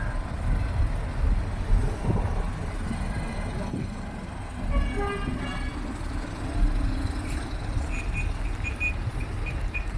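Vehicle engines running at low revs, with a horn toot about halfway through and a quick string of short high beeps near the end.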